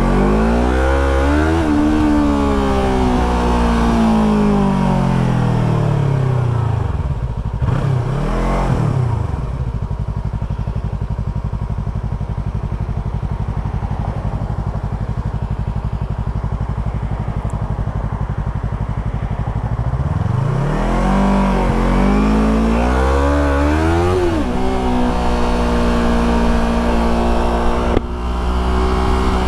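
Motorcycle engine heard from the rider's own bike. The revs fall steadily for the first several seconds, dip and pick up briefly around the eight-second mark, then run steady and low for about ten seconds. It then accelerates through about four seconds and holds a higher, steady pitch, with a short break near the end like a gear change.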